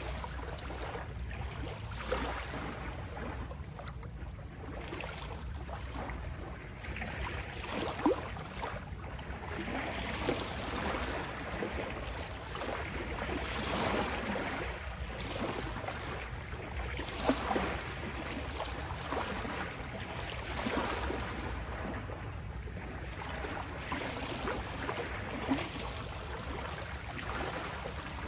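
Small sea waves lapping and rippling at the shore, washing in and out in gentle swells every few seconds, with a few brief sharper splashes.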